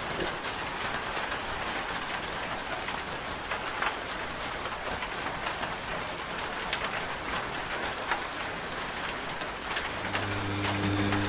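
Rain falling steadily, with scattered sharper drop hits. About ten seconds in, a washing machine's steady low motor hum starts again under the rain.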